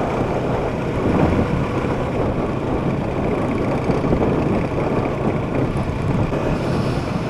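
Yamaha R3 motorcycle being ridden at speed, its parallel-twin engine running steadily under a constant rush of wind and road noise.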